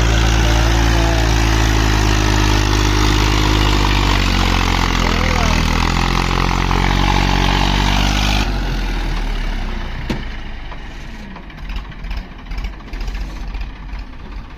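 Tractor diesel engine running with a steady drone whose pitch dips slightly midway. About eight seconds in the sound changes abruptly to a quieter, rougher engine noise.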